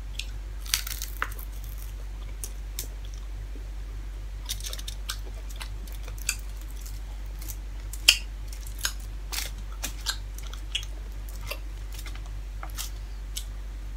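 Close-miked chewing of crispy fried dried milkfish: irregular crisp crunches and clicks, the sharpest about eight seconds in, over a steady low hum.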